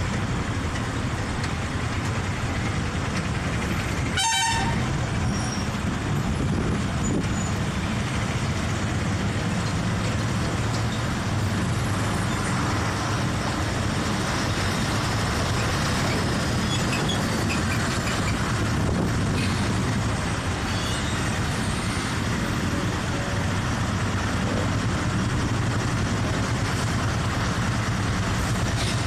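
Vehicle travelling along a highway in heavy rain: steady engine and road rumble mixed with the hiss of rain and tyres on the wet road.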